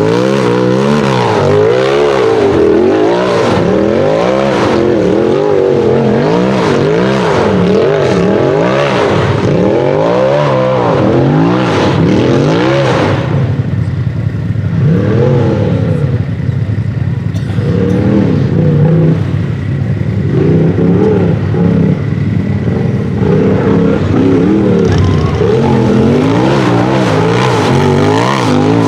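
UTV race buggy engine revving hard and dropping back over and over, about once a second. It steadies to a more even run in the second half.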